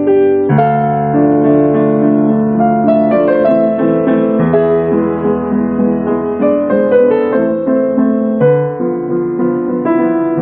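Solo piano music playing, a slow melody over sustained chords.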